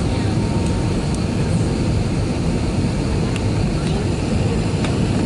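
Steady low roar of an Airbus A320-200 airliner heard inside the passenger cabin during landing, with a few faint cabin rattles and ticks.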